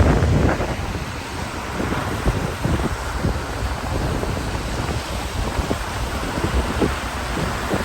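Rain with wind buffeting the microphone: a steady noise broken by many irregular low thumps.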